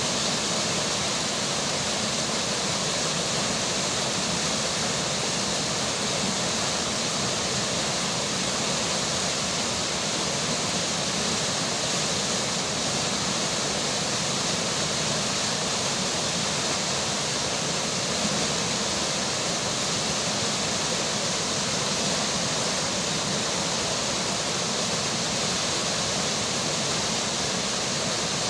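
Flowing river water and falling rain, a steady, even rush with no breaks or single events.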